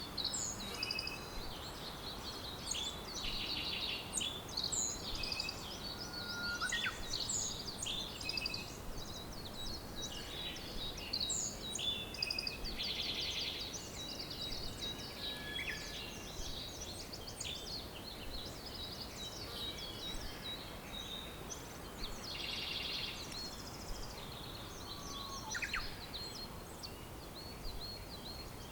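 Several songbirds chirping and singing over one another, with fast trills every several seconds and a few lower whistled notes, over a steady background hiss.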